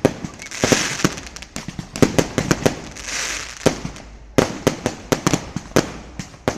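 Fireworks going off in rapid volleys of sharp bangs and crackles, with two short hissing swells, a brief lull about two-thirds of the way through, then another dense volley.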